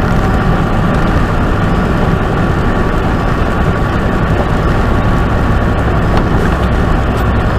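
Steady in-cab drone of a semi-truck at highway speed: engine rumble mixed with tyre and road noise on wet pavement, with no changes.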